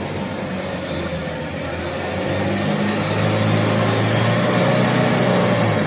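A motor vehicle's engine running under load. It grows steadily louder over the first four seconds or so and eases off near the end.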